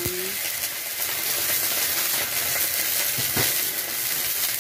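Onion and ginger-garlic masala sizzling steadily in oil in a kadai over a wood fire, with a couple of light knocks a little over three seconds in.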